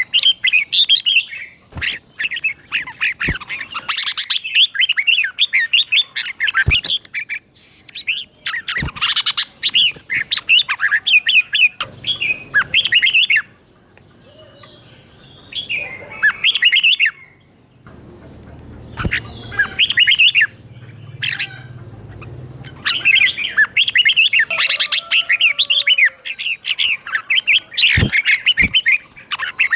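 Red-whiskered bulbul singing in runs of quick, bubbling whistled phrases, doubled in pairs in the style prized in trained songbirds. There is a quieter pause about halfway through, and sharp clicks fall here and there between phrases.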